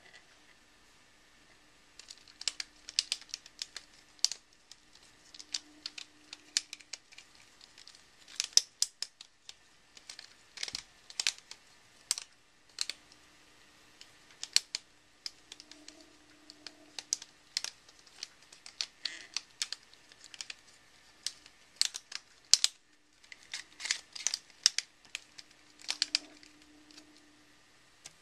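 Plastic segments of a Rubik's Snake being twisted by hand: irregular sharp clicks and clacks in quick clusters, with short pauses between.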